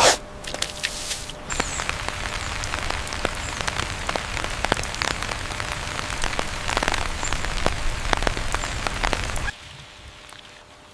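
Steady rain falling, with many separate drops ticking on surfaces. It opens with a short loud burst and cuts off suddenly near the end.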